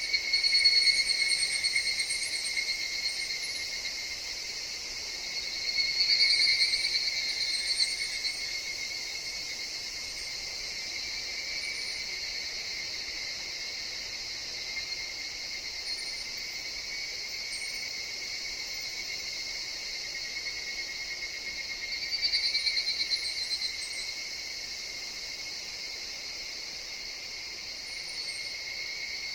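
Higurashi (evening cicadas) calling in a steady high chorus, with louder rapid pulsing calls swelling up and fading three times: near the start, about six seconds in and about twenty-two seconds in.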